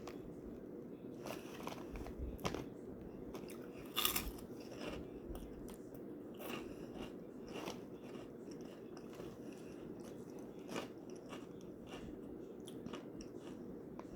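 A person chewing crunchy cheese puff snacks: irregular crunches, the loudest about four seconds in.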